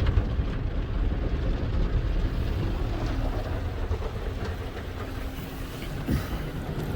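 Autec in-bay automatic car wash machine running over the car, a steady low rumble heard from inside the car's cabin.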